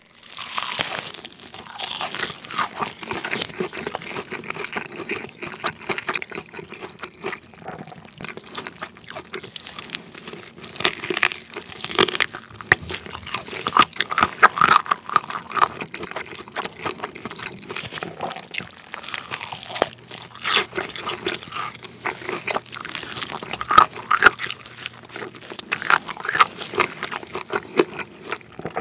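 Crispy fried chicken bitten and chewed close to the microphone, with repeated sharp crunches of the fried coating between softer chewing.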